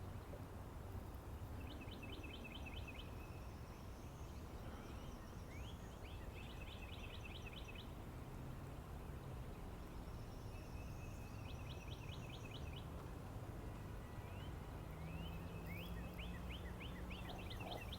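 A small songbird singing short phrases of about eight quick high notes, repeated every few seconds and closer together near the end, over a steady low outdoor rumble.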